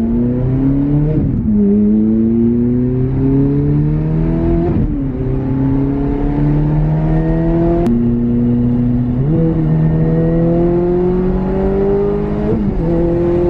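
Ferrari F430's 4.3-litre V8 on a muffler-delete straight-pipe exhaust, pulling up in pitch under throttle and dropping back at several gear changes.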